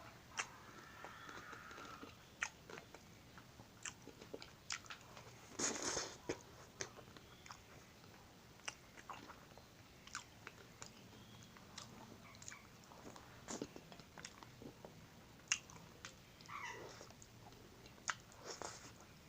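Close-up biting and chewing of an ice cream bar on a stick: scattered crisp crunches and clicks, with a denser burst of crunching about six seconds in.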